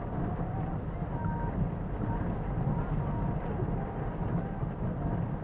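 A car driving, heard from inside the cabin through a dashboard camera: a steady low rumble of engine and tyres on the road.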